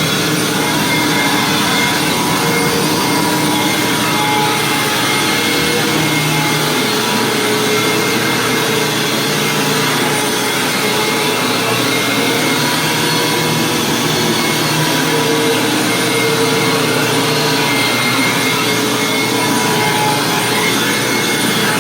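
Hoover WindTunnel Plus upright vacuum cleaner running on carpet: a steady motor whine over the rush of the suction and the spinning brush roll, its pitch wavering slightly as it is pushed.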